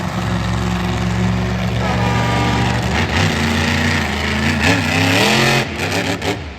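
Monster truck engine running loud, then revving in several quick rising climbs before dropping off sharply near the end.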